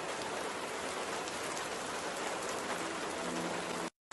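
Steady rain falling, an even hiss of many drops. It cuts off suddenly just before the end.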